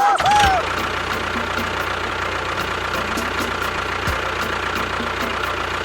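A motor running steadily, with a faint regular tick about three times a second.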